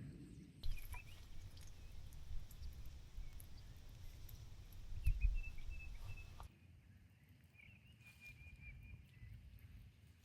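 Short, faint bird chirps over a low outdoor rumble; the background shifts abruptly twice.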